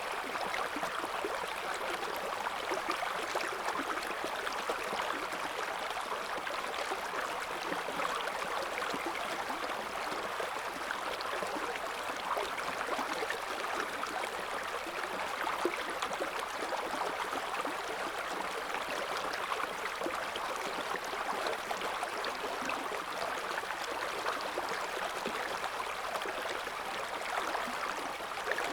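River current flowing over stones, a steady babbling and gurgling rush of water.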